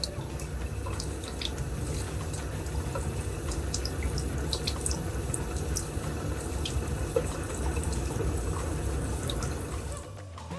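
Water running steadily, with scattered short high clicks and chirps over it.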